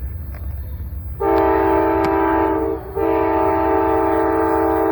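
A locomotive's multi-chime air horn sounding two blasts over the low rumble of an approaching train: a blast of about a second and a half, a brief gap, then a longer blast.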